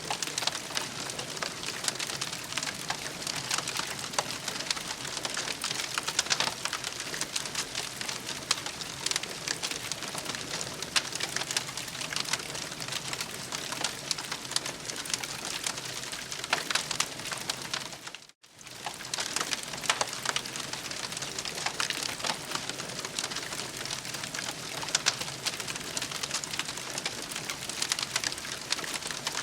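Campfire crackling steadily, a dense run of small pops and snaps over a soft hiss, with a momentary gap about two-thirds of the way in.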